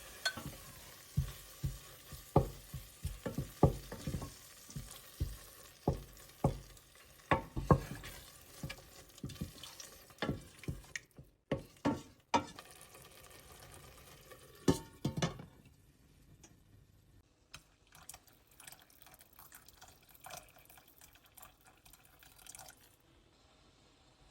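Dishes and kitchen utensils clinking and knocking in a quick irregular series, dense for the first fifteen seconds or so, then sparser and fainter.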